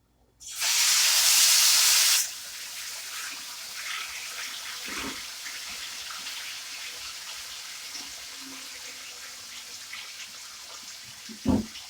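Seasoned chicken pieces hitting hot oil in a pot: a loud burst of sizzling about half a second in that lasts a couple of seconds, then settles to a steady frying sizzle. Two short knocks, one near the middle and a louder one near the end.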